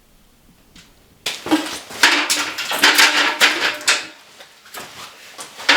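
A dense run of clattering and knocking of hard objects for a few seconds, then fainter scattered knocks and one sharp knock near the end.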